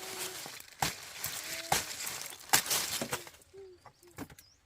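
Three sharp knocks a little under a second apart, then a few fainter taps, with brief snatches of a voice between them.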